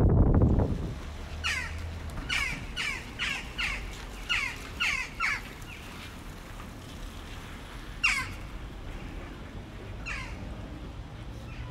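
A low rumbling noise dies away in the first second. Then a bird calls in a quick run of about nine short, falling calls, followed by two single calls a few seconds apart.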